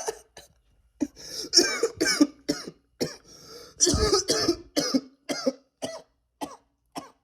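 A person coughing hard after a long vape-pen hit: about a dozen harsh coughs in a fit, the strongest near the middle, getting shorter and weaker toward the end.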